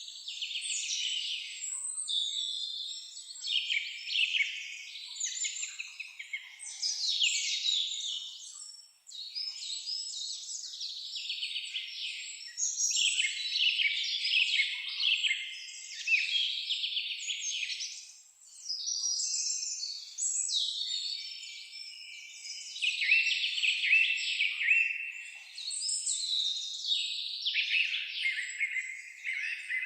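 Chorus of many small songbirds chirping and singing at once: a dense, unbroken run of rapid high chirps and trills that thins out briefly twice.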